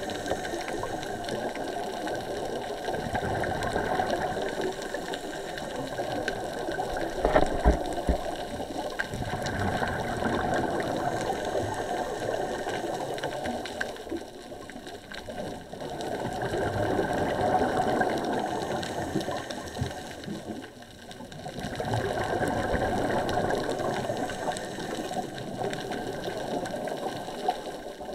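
Underwater sound of scuba bubbles and regulator breathing, a bubbling rush that swells and fades every few seconds, with a sharp knock about seven seconds in.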